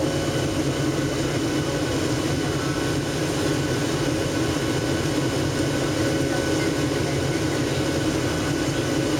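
Steady cabin noise inside a Boeing 737-700 in flight: a constant drone of its CFM56 jet engines and rushing air, with a few faint steady hum tones and no change in level.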